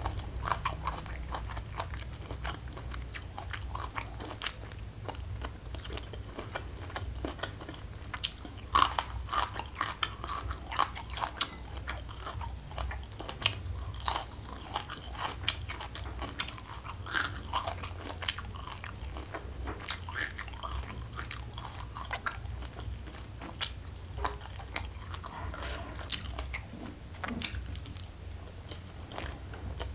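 Close-miked chewing and crunching of food, with many irregular crisp bites and wet mouth sounds over a steady low hum.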